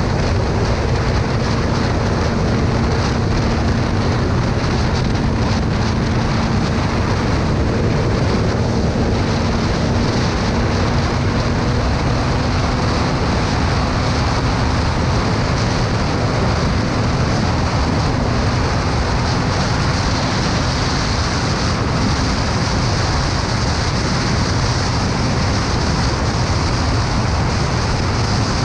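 Steady road noise of a moving motorcycle: wind rushing over the microphone, with a low engine hum under it that fades out about twenty seconds in.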